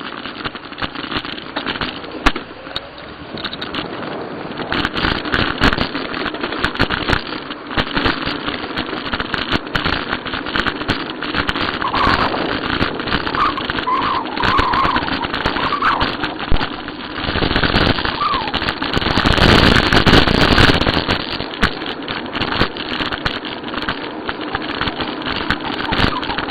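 Riding a bicycle on a rough path: wind rushing over the microphone, with frequent clicks and rattles from the bike jolting over bumps, and a stronger gust of wind noise about two-thirds of the way through.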